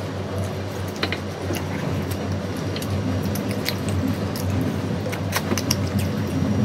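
Chewing and mouth sounds from eating by hand, with scattered small clicks as fingers pick at food on a steel plate, over a steady low hum.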